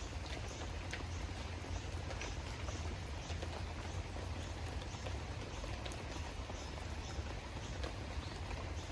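Steady rain with scattered drops ticking sharply, over a constant low rumble.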